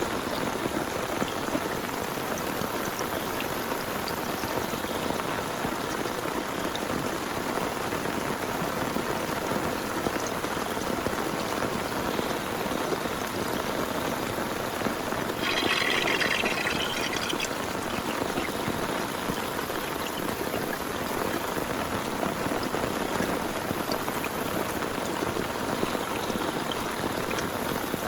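Heavy rain falling steadily, an even hiss. About halfway through, a brighter, higher hiss rises over it for about two seconds.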